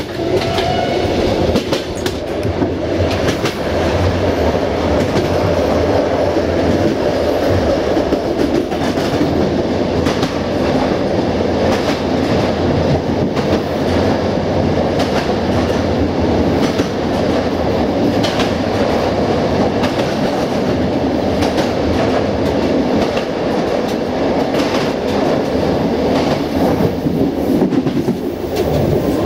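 Passenger train running along jointed track, heard from the rear cab: a steady rumble of wheels on rail with repeated clickety-clack over the rail joints. Part of the run is inside a short stone railway tunnel.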